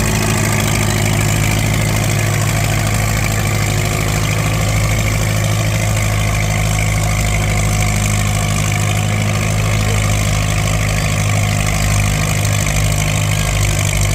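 Antique tractor engine running at a steady, unchanging speed under load while pulling the sled down the track.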